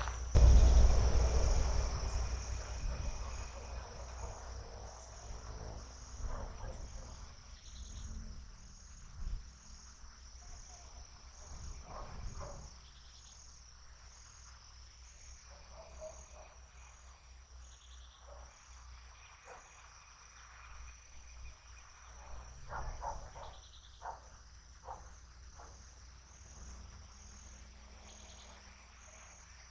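Insects, likely crickets, trilling with a steady high-pitched drone. A loud low rumble at the start fades away over the first few seconds, and scattered faint clicks come and go.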